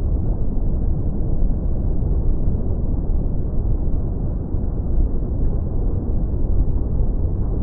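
Tropical beach ambience: a steady, muffled low rumble of surf with nothing standing out from it.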